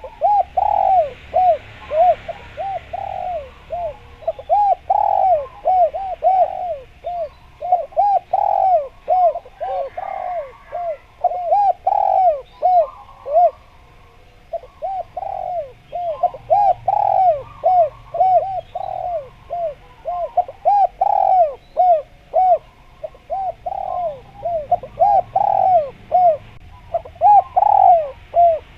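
Spotted dove (derkuku, tekukur) cooing vigorously: a long, rapid run of short, arched coos repeated over and over without a break.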